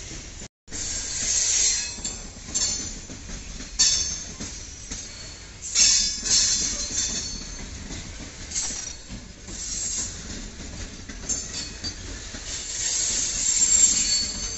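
Covered BCNA goods wagons rolling past on the rails, their wheels squealing in repeated high-pitched flare-ups over a steady low rumble, with some clickety-clack. The sound cuts out completely for a moment about half a second in.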